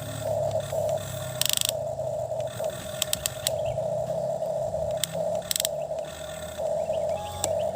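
Small electric motor of a toy excavator whining steadily with short breaks over a low hum, with brief bursts of rapid gear clicking a few times.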